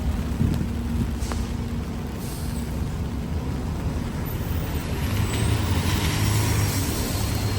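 Road traffic: a heavy vehicle's engine running with a steady low hum, joined about five seconds in by a louder rumble and a rising hiss.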